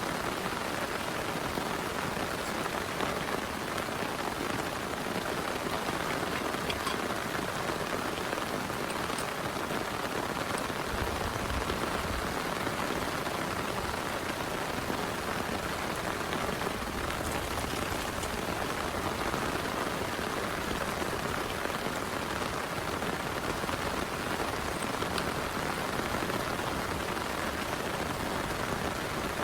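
Heavy rain pouring steadily, a dense even hiss of drops, with a brief low rumble about eleven seconds in.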